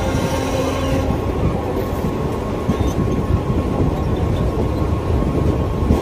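Mumbai suburban electric local train running at speed, a steady rumble of wheels on the rails heard from the open doorway. A faint hum tone fades out about a second in.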